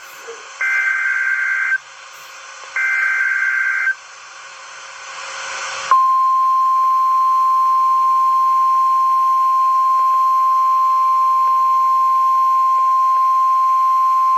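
NOAA Weather Radio emergency alert: two short bursts of warbling SAME data tones, a hiss that grows for a couple of seconds, then the steady 1050 Hz warning alarm tone held for about eight seconds, signalling that a warning follows.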